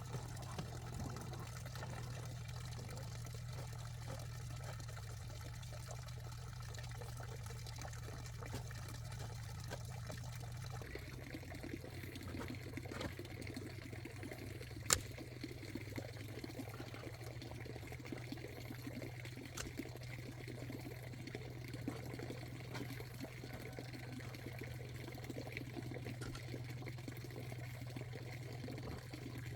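Water pouring and trickling steadily, over a low steady hum. The sound of the water changes about eleven seconds in, and there is one sharp click near the middle.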